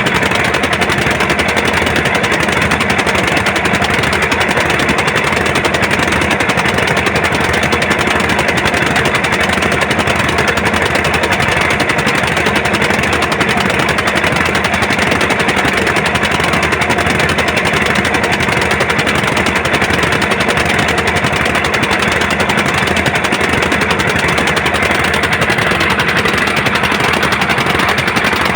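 Diesel engine running steadily with a fast, even knocking clatter.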